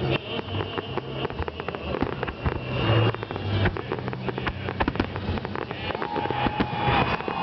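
Fireworks salute going off: a dense, irregular run of sharp bangs and crackles over a low steady hum.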